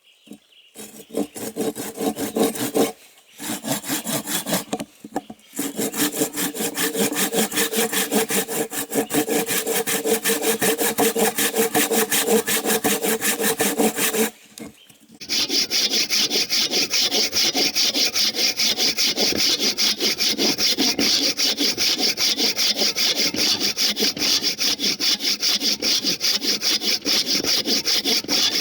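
A saw cutting through wood with quick, even back-and-forth strokes, stopping briefly a few times. After a pause about halfway through, the strokes sound brighter and steadier.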